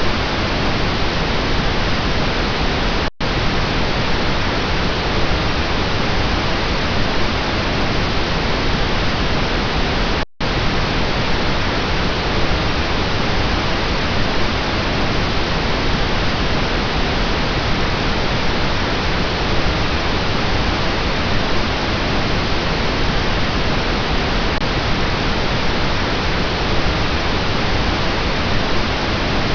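Steady pink noise, a constant even hiss, cut by two very brief dropouts about three and ten seconds in.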